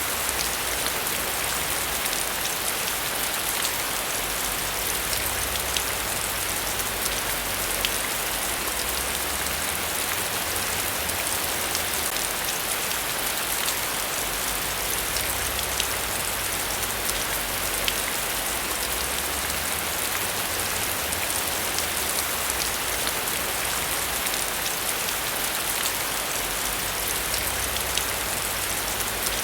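Heavy rain falling steadily, with scattered sharper drop ticks over a dense hiss and a low rumble that comes and goes underneath.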